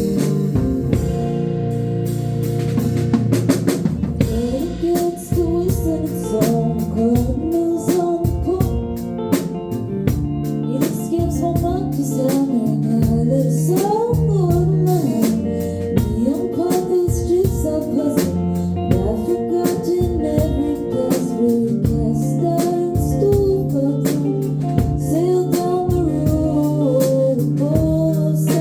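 A live band playing a song: a drum kit keeps a steady beat with snare hits under held chords, and a voice sings a wavering melody over them.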